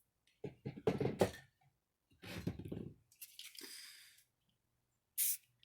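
Aerosol spray paint can hissing in short bursts as shadowing is sprayed, with knocks and handling clatter in the first half.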